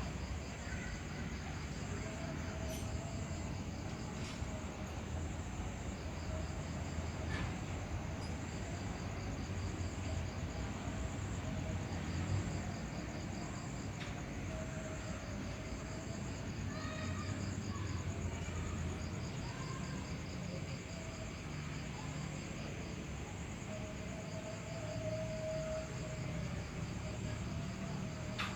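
Night insects, crickets, chirping in steady fast pulsed trills, with now and then a longer lower note. A low steady rumble runs underneath.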